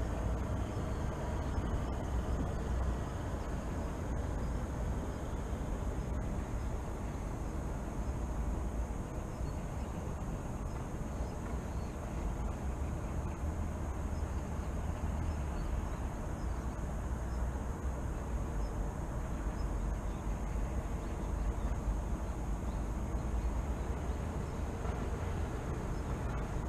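Steady low rumble of distant city traffic, an unbroken outdoor ambience with no single event standing out.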